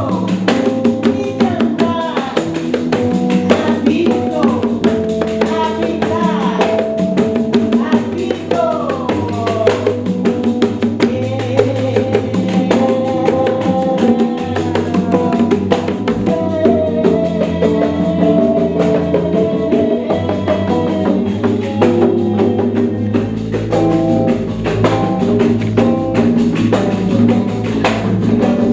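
Live music played by a pandeiro ensemble: many rapid frame-drum strokes keep a steady rhythm under a changing melodic line.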